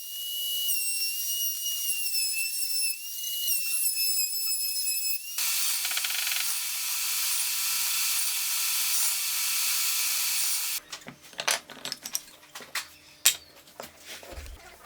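A power tool whines at a high, slightly wavering pitch. At about five seconds in it gives way to a steady hiss from a tool for about five seconds, which stops abruptly and is followed by a run of irregular clicks and knocks.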